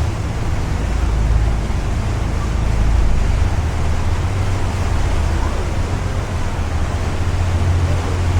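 Sightseeing ship's engines running with a steady low drone, under a continuous wash of water and wind noise.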